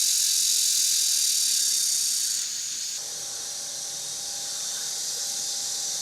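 Dense, steady high-pitched insect chorus, a hiss with no low sound under it, dropping in level about halfway through. Faint music tones come in underneath from about halfway.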